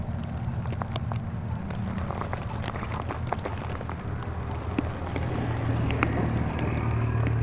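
Steady low engine drone, like a vehicle running, with scattered sharp clicks and ticks over it.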